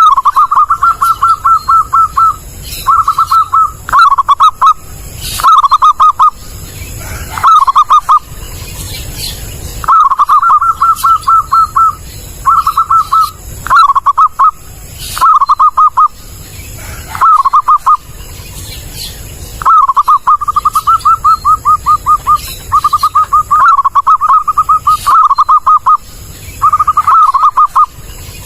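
Zebra dove (perkutut) calling: phrases of rapid pulsed cooing notes, each half a second to two and a half seconds long, repeated about a dozen times with short pauses between.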